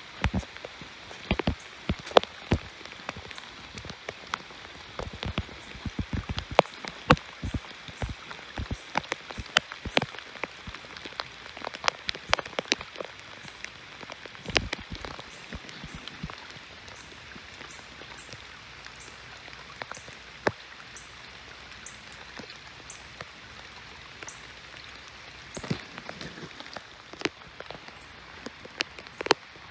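Rain falling: a steady light hiss with many sharp taps of single drops landing close by. The taps come thickest in the first half, thin out for a while, and pick up again near the end.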